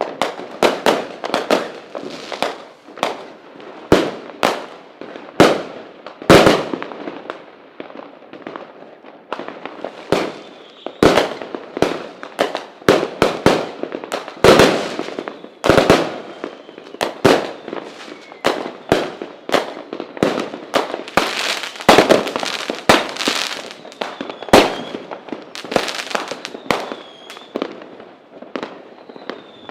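Fireworks display: a dense, continuous run of sharp firework bangs, often several a second, each with an echoing tail. Faint whistles sound in between, near the middle and the end.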